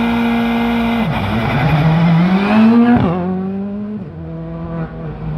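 Rally car engine held at steady high revs on the start line, then the car launches about a second in and the engine note climbs steadily as it accelerates away. About three seconds in the sound cuts to a rally car's engine running at a steadier, lower note.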